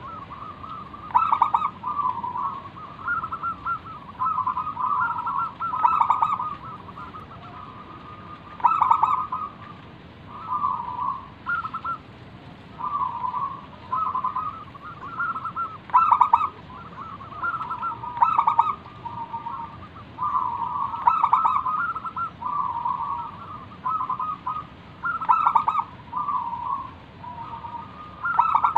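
Zebra dove (perkutut) singing its cooing song: bout after bout of quick, fluttering notes around one pitch, a new phrase every second or two.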